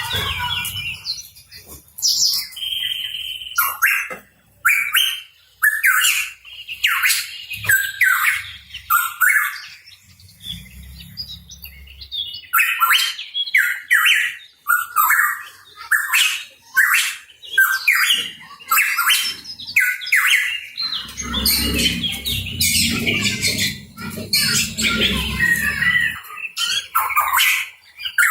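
Hooded pitohui calling in quick, repeated short notes, about two a second, with brief pauses between phrases. A low rumble sits underneath for a few seconds after the middle.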